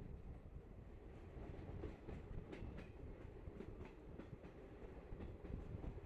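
Passenger train running along the track: a steady low rumble with irregular clacks and knocks from the wheels and carriages.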